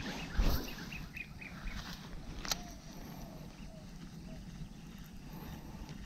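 A bird calling in a quick run of short, falling chirps over steady outdoor background noise. There is a low thump just before the chirps and a single sharp click a couple of seconds in.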